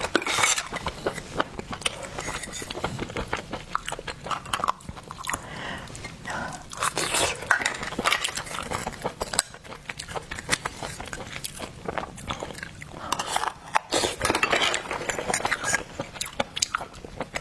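Close-miked eating of seafood: wet chewing and biting with many quick small crunches and clicks.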